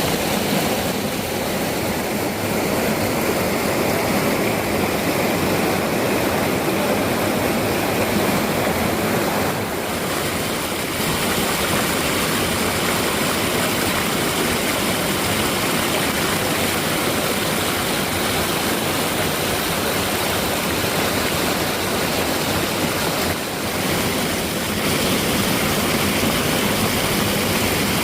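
Waterfall pouring into a rocky mountain valley, a steady full rush of falling water.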